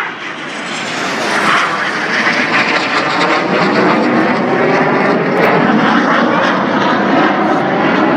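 Fixed-wing aircraft flying past, its engine noise building over the first second or so and then holding loud and steady.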